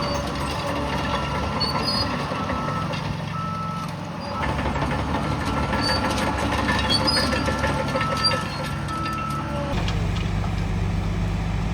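Heavy diesel machinery running, with a reversing alarm beeping on and off. The engine sound changes abruptly near the end.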